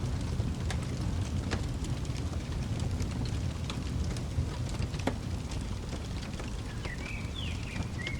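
Wood fire crackling: scattered sharp pops over a low, steady rumble. Near the end a bird gives a few short chirps.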